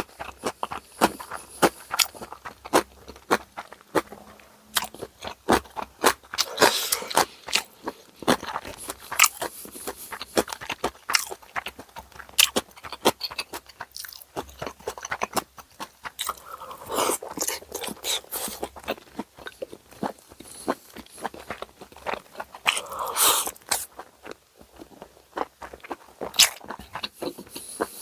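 Close-miked chewing of bossam, Korean boiled pork, with crunching bites and many quick wet mouth clicks. A few longer crunchy, rustling bites come about a quarter, two-thirds and four-fifths of the way through.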